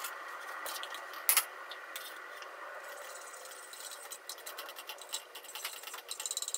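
A utensil stirring soup in a small stainless steel saucepan, with small rapid clicks and scrapes against the metal in the second half, over a steady hiss from the lit gas burner. A single sharp knock about a second in.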